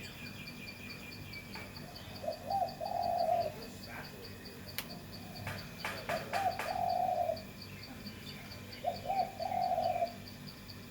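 A dove cooing: three low coo phrases of about a second each, a few seconds apart. The watcher takes it for a nesting female calling her mate. A faint, steady, pulsing insect chirp runs underneath.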